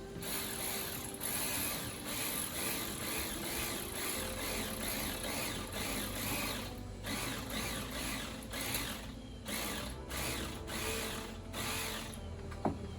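Ratchet wrench clicking in repeated back-and-forth strokes, briefly pausing a few times, as it tightens an ignition coil pack's hold-down bolt.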